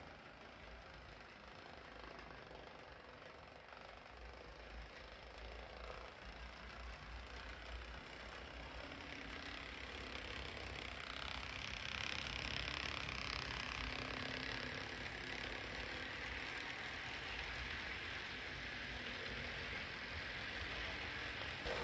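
HO-scale IHC 2-8-2 steam locomotive model running on its track, its small electric motor and wheels making a steady mechanical running noise that grows gradually louder.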